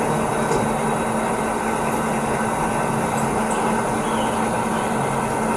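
Steady mechanical hum with an even background rush, with a few faint high ticks.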